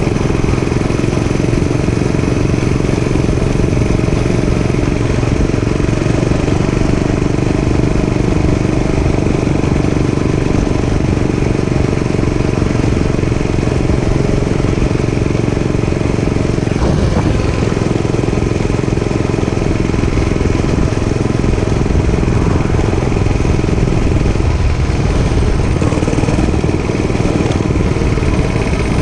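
Dirt bike engine running at a fairly steady speed while riding, with small shifts in pitch around the middle and near the end.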